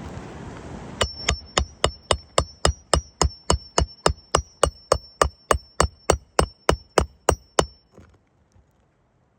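Hammer rapidly driving a roofing nail into shingles, about four sharp metallic strikes a second with a ringing tone, about 25 blows in a row before stopping near the end.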